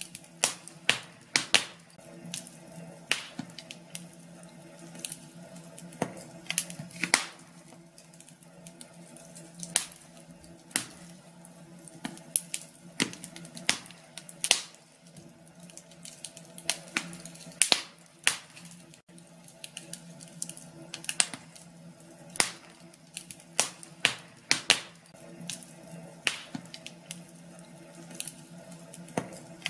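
Wood fire burning in a fireplace, crackling with irregular sharp pops, a few every second or two, over a low steady hum.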